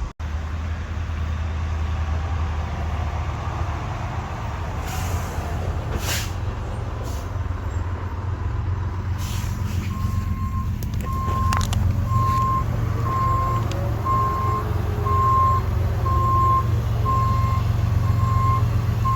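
Heavy work vehicle's engine running steadily nearby. From about halfway through, its backup alarm beeps about once a second as it reverses.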